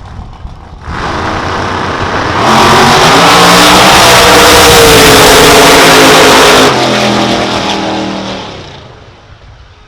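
Drag racing car at full throttle on a run down the strip. The engine comes in suddenly, grows very loud for about four seconds, then drops off and fades away.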